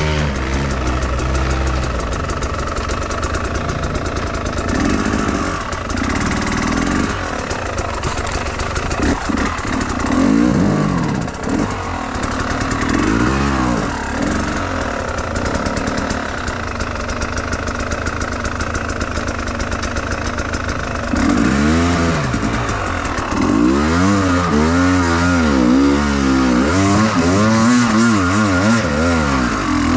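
Enduro motorcycle engine being ridden, its revs rising and falling over and over as the throttle is worked, with quicker and more frequent revving in the last third.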